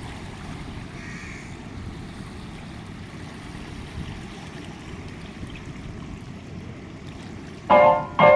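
Steady rushing water noise of a monsoon waterfront ambience, with a bird calling faintly about a second in. Music starts loudly near the end.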